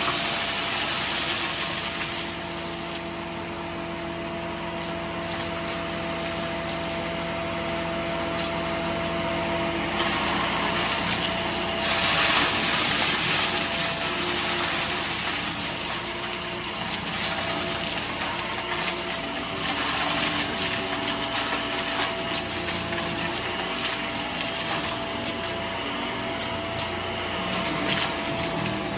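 Vacuum cleaner running steadily with a constant whine, its rushing hiss louder at the start and again about twelve seconds in.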